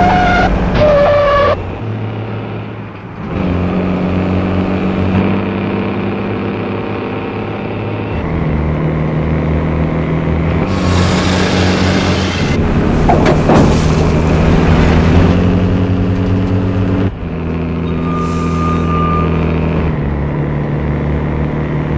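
A heavy truck engine runs with a steady drone that drops to a new pitch every few seconds, as with gear shifts. Two bursts of hissing come near the middle, and a short steady tone sounds near the end.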